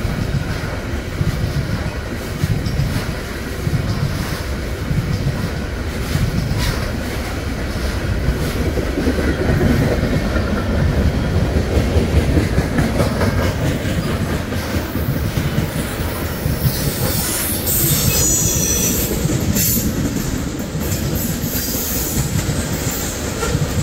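Ballast train's hopper cars rolling past close by: a steady rumble with the wheels clacking rhythmically over the rail joints. About two-thirds of the way through, a high wheel squeal rises over the rumble for a couple of seconds.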